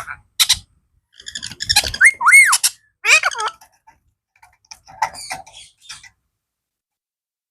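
Blue Indian ringneck parrot calling and chattering in a string of short squawks and arching whistled notes, loudest a couple of seconds in, falling silent for the last second or so.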